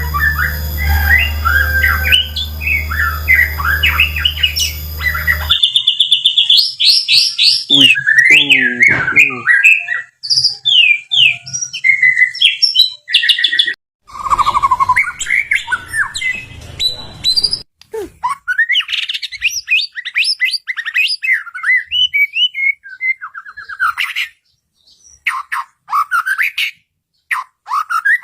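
White-rumped shama singing a long, varied song of clear whistles, rapid trills and chattering phrases, with short pauses between phrases. A steady low hum runs under the song at first and stops abruptly about five seconds in.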